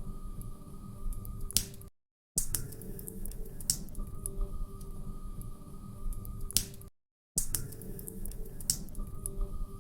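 Log fire crackling: a low rustling bed with sharp pops and snaps. It is a short loop of about five seconds that repeats, with a brief cut to silence at each seam, about two and seven seconds in.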